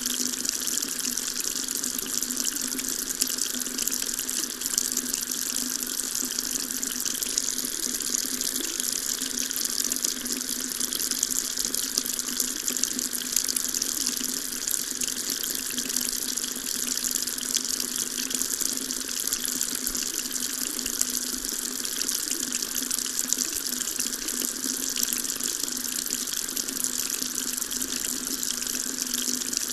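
Water tap running steadily, its stream splashing into a sink in an even, unbroken hiss.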